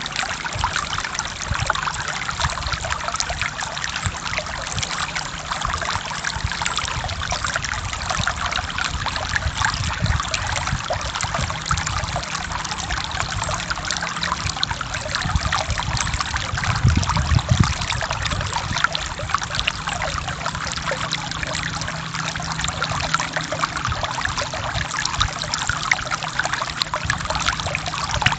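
Forest stream flowing steadily over rocks, a continuous splashing and trickling of running water.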